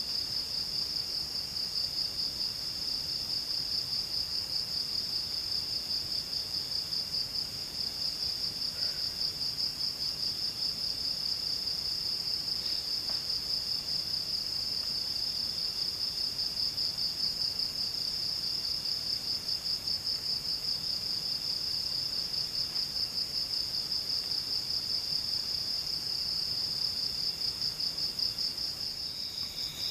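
Insects trilling nonstop in a high-pitched, fast-pulsing chorus, with a second, lower trill cutting in and out.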